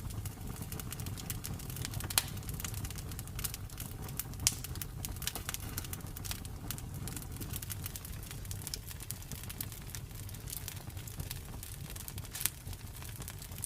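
Campfire burning: a steady low rumble of the flames with irregular crackles and pops from the burning wood, a few sharper pops standing out, about 2 s, 4.5 s and 12.5 s in.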